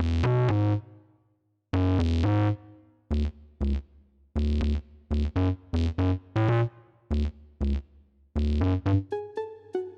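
Riot Audio Bionic Plucks & Mallets virtual instrument playing synth pluck notes and chords over a deep bass, in short detached phrases with a brief pause about a second in. Near the end it changes to brighter, ringing plucked notes.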